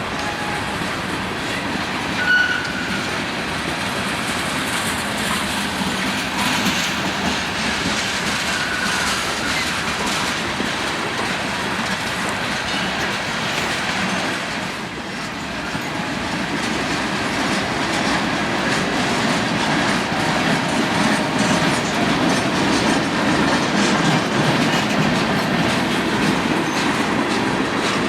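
A train rolling past, its wheels clacking over rail joints in a steady rush of running noise, with a brief high wheel squeal about two seconds in. The noise grows louder in the second half.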